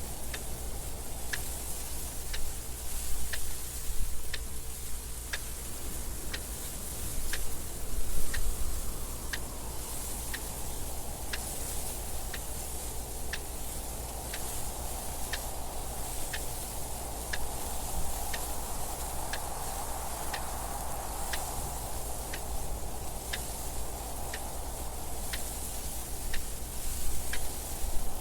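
Clock ticking at an even pace over steady wind noise, a low rumble with hiss, that swells and eases in slow gusts.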